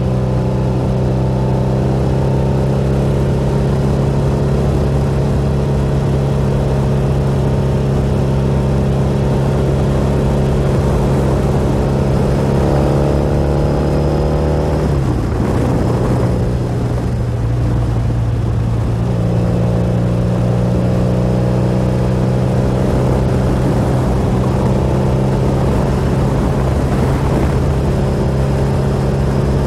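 1988 BMW R100's air-cooled boxer-twin engine and exhaust running steadily under way. About halfway through, the engine note climbs, drops off suddenly, and runs thinner for a few seconds before settling back into a steady cruise.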